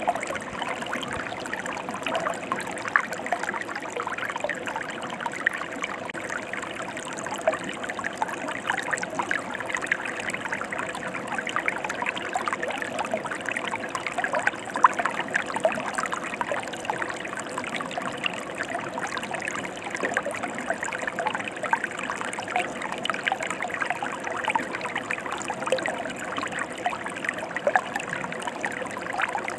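Mountain stream flowing, a steady rush of water broken by many small splashes and trickles.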